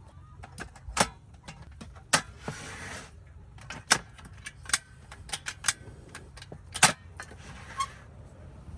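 A series of sharp, irregular clicks and knocks, like small hard objects being handled, over a steady low rumble.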